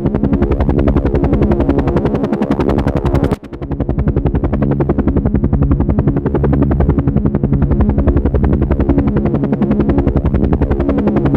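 Helicopter rotor sound, a steady, rapid chopping, with a short dip in level about three and a half seconds in.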